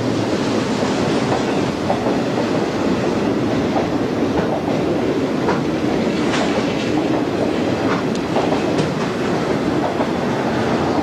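A train rolling past, its steel wheels running steadily on the rails, with a few short sharp clicks in the second half.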